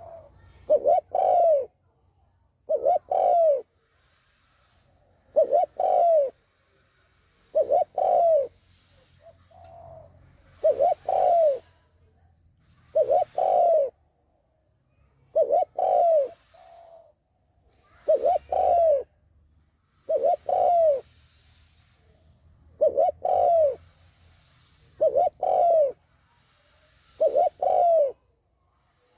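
Spotted dove cooing. It repeats the same phrase, a short coo followed by a longer one that falls in pitch, about every two and a half seconds.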